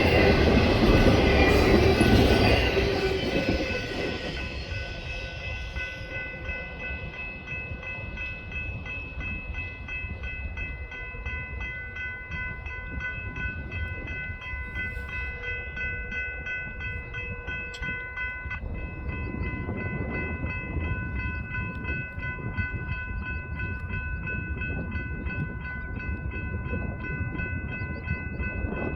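Train rolling past, loud for about the first three seconds and then a softer, steady rumble. Several steady high ringing tones sound over it throughout.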